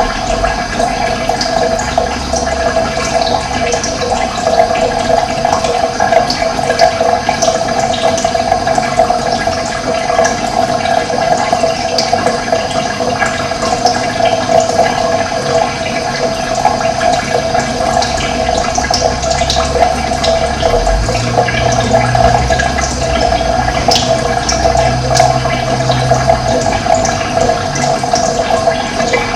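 Running water flowing steadily, a continuous rushing with small splashy flecks on top.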